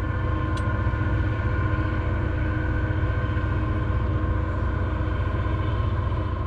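Engines of a passing oilfield service boat running steadily: a low rumble with a steady high whine over it.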